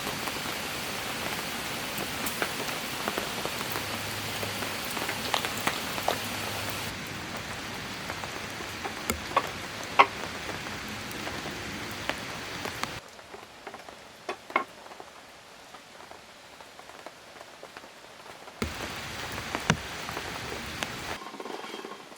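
Steady rain falling, with single drops landing close by as sharp ticks. The rain's level drops suddenly about 13 seconds in and comes back up near 19 seconds.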